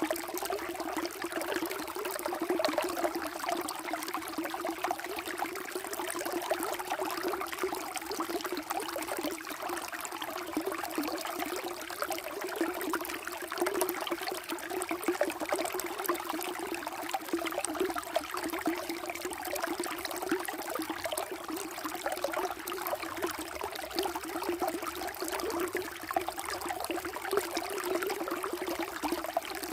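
Water flowing and trickling steadily, a continuous bubbling babble with no pauses.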